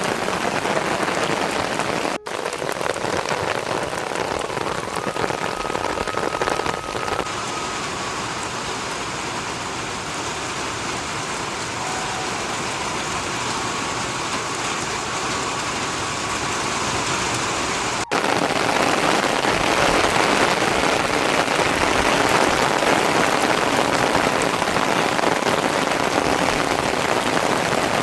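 Steady rain falling, a dense hiss without pause. It breaks off sharply for a moment about two seconds in and again about eighteen seconds in, and comes back louder after the second break.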